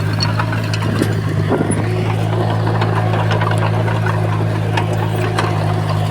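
Komatsu bulldozer's diesel engine running steadily, with scattered short clicks and clanks over the engine's hum.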